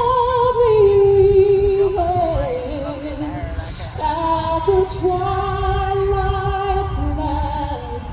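A woman singing the national anthem, one voice holding long notes with vibrato, over a low rumble.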